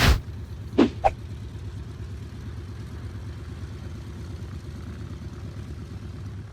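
A sharp burst, then the steady low drone of the PBY Catalina's twin radial engines running.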